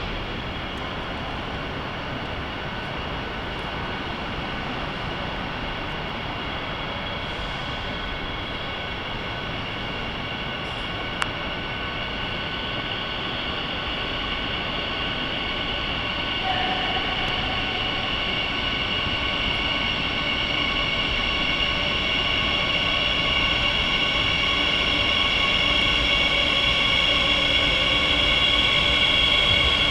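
Madrid Metro 8000-series train approaching and entering the station, growing steadily louder. A rumble runs under a high, steady whine of several tones.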